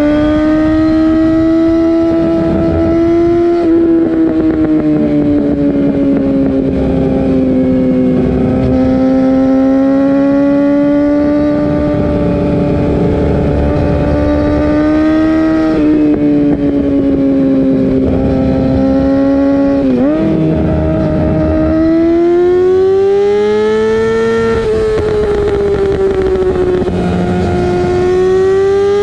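Yamaha R6 inline-four fitted with an Akrapovic Evolution GP full titanium exhaust, running at high revs. The pitch rises and falls slowly. About twenty seconds in it dips sharply and comes straight back up.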